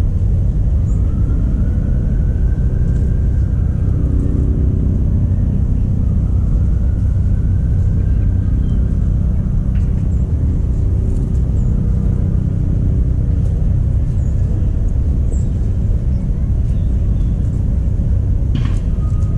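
A loud, steady low rumble throughout, with faint short high chirps here and there and a sharp click near the end.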